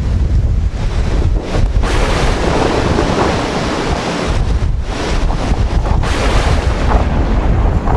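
Heavy storm surf breaking on the shore in surges, with strong wind buffeting the microphone as a steady low rumble.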